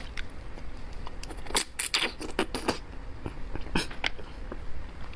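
Close-miked wet chewing and mouth smacks of someone eating roasted beef bone marrow: a run of short, irregular clicks and squelches in the middle, with quieter chewing around them.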